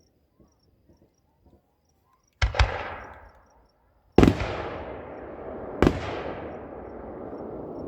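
Fireworks bursting overhead: a quick double bang about two and a half seconds in, then two louder single bangs about four and six seconds in, each trailing off in a long rolling echo.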